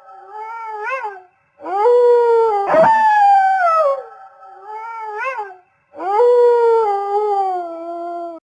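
Wolves howling: long, drawn-out howls that slide slowly down in pitch, with voices overlapping, coming in three waves separated by short breaks.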